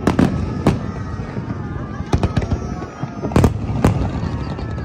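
Aerial fireworks bursting in an irregular series of sharp bangs, the loudest about three and a half seconds in.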